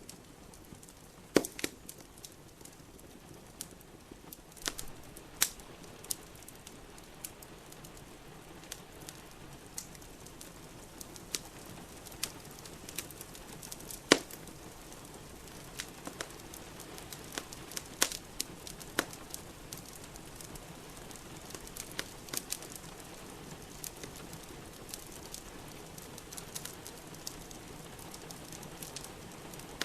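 Wood fire in a fireplace crackling, with scattered sharp pops at irregular moments, the loudest about fourteen seconds in, over a steady hiss of rain.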